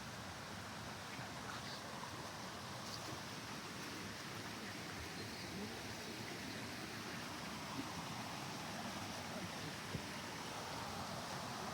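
Steady rushing outdoor ambience, growing slightly louder toward the end.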